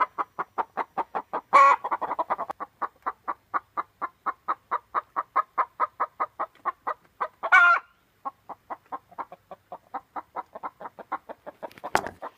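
Ex-battery hens clucking in a steady, rapid run of short clucks, about six a second, with two louder, longer calls, one about a second and a half in and one about seven and a half seconds in. A sharp knock comes just before the end.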